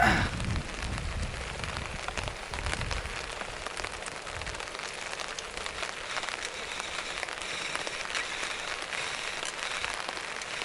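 Steady rain pattering on woodland foliage. A sharp knock comes right at the start, and wind buffets the microphone for the first four seconds or so.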